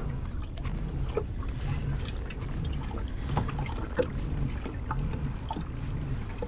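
Pedal-drive propeller of a Native Slayer Propel Max 10 fishing kayak turning under steady pedalling. It makes a low whir that swells and fades in a regular rhythm about every three quarters of a second, with light water splashes and ticks against the hull.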